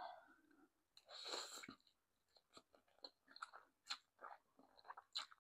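Faint, close-up chewing of food: soft, irregular wet mouth clicks, with a short breathy rush about a second in.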